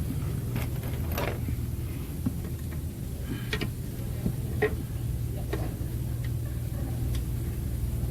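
2021 Tahoe/Yukon V8 engine running with a steady low hum, and sharp ticks scattered irregularly over it, about eight in all. This is the ticking noise being chased alongside a misfire code.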